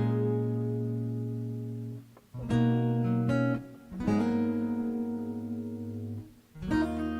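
Acoustic guitar strumming slow chords, each chord left to ring out and fade before the next is struck.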